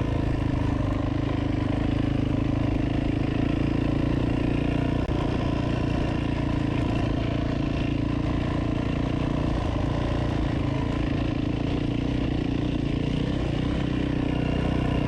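Off-road motorcycle engine running steadily at an even speed.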